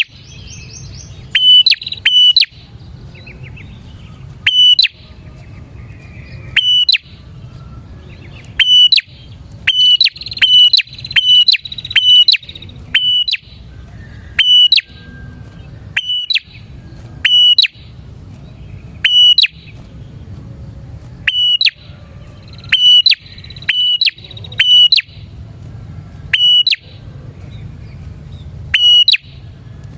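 Prinia (prenjak) calling loudly: sharp, clipped call notes repeated every second or two, often in quick pairs, over a low steady hum and faint twittering.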